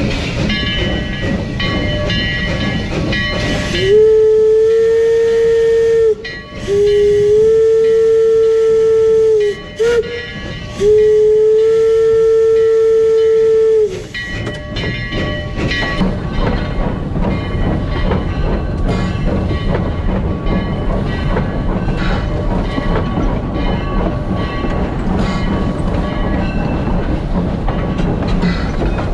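Steam locomotive whistle blowing three long blasts, with a brief toot between the second and third, each blast sliding up in pitch as it opens. Between and after the blasts the train runs on with steady hiss and rumble.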